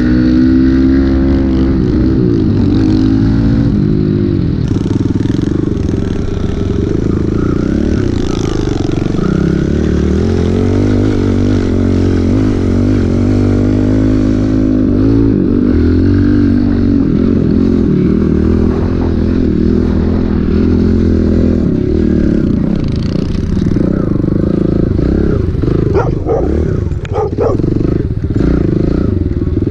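Small pit bike engine running hard while ridden, its pitch rising and falling as the throttle is worked, with a few clattering knocks near the end.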